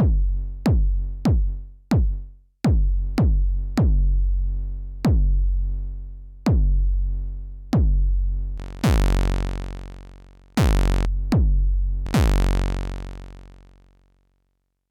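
Elektron Syntakt's analog BD Sharp bass drum engine, played dry: about a dozen unevenly spaced synthesized kick drums, each a sharp attack dropping in pitch into a long, deep tail. From about two-thirds in, three of the hits carry a bright, hissy top layer, and the last one dies away just before the end.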